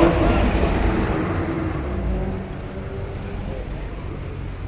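A car driving past with its engine running loud, loudest at the start and fading away over the next two seconds into steady traffic noise.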